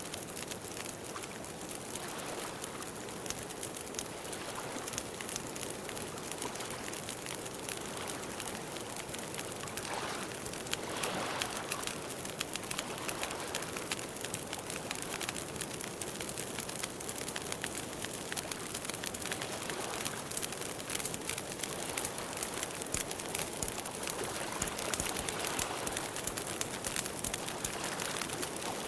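Campfire burning with a steady hiss and many small irregular crackles and pops.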